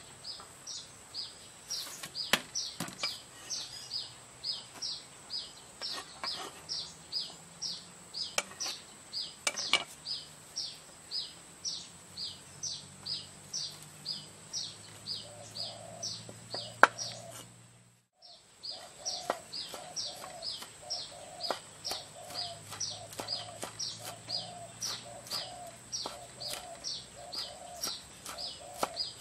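A small bird calling over and over, a steady series of short high chirps about three a second, with a lower repeated call joining about halfway through. Now and then a sharp knock of a cleaver chopping on a wooden board.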